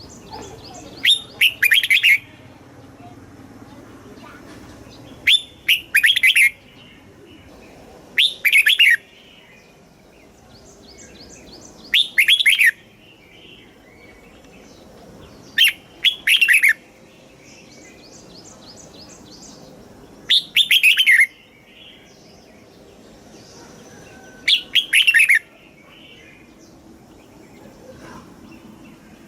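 Red-whiskered bulbul singing: a loud, short phrase of a second or so, repeated seven times at intervals of about four seconds. Fainter chirps fill the gaps between phrases.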